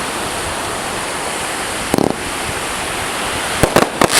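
Steady rushing noise of surf and wind on the microphone. A sharp firework bang comes about two seconds in and a quick cluster of bangs near the end.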